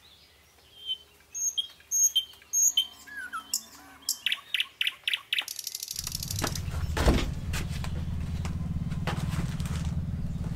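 Birds chirping in short, separate calls and a quick run of pulses. About six seconds in, a steady low hum sets in abruptly, with scattered clicks and a knock over it.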